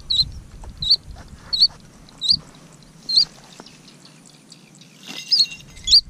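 A bird giving short, sharp, high-pitched calls, about one every three-quarters of a second. There are seven in all, with a pause of about two seconds before the last two.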